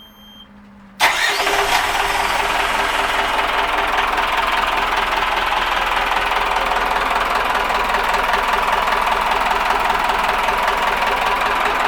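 Yanmar FX27 boat's inboard diesel engine running steadily and loud. It comes in suddenly about a second in.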